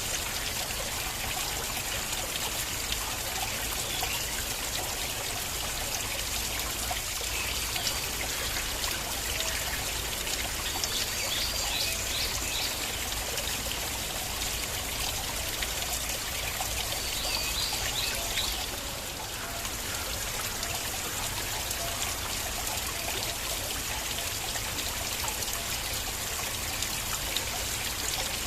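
Flowing stream water running steadily, a continuous trickling and splashing.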